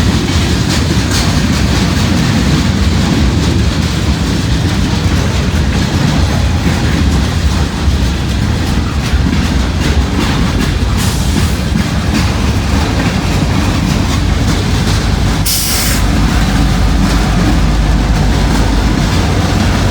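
Freight cars of a local freight train rolling past, their wheels running steadily over the rails with a low rumble. About fifteen seconds in there is a short, high hiss, and the low rumble grows stronger toward the end.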